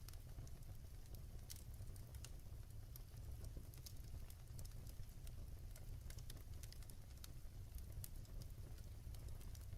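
Wood fire burning in an open fireplace, crackling with irregular sharp pops and snaps over a low, steady rumble of the flames.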